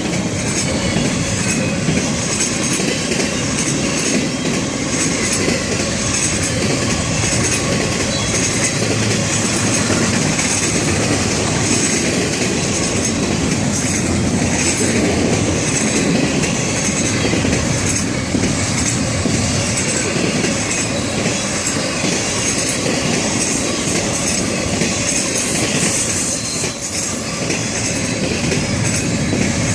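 Florida East Coast Railway train's cars rolling past at speed: a steady loud rumble of steel wheels on rail with a regular clicking rhythm.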